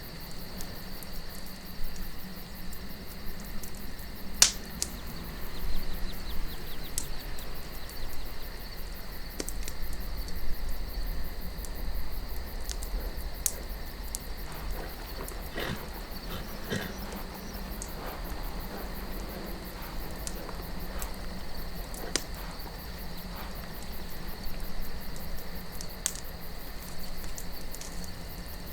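Wood fire crackling, with scattered sharp pops, the loudest about four seconds in and again near the middle and toward the end. Crickets chirr in a steady high drone, over a low wind rumble.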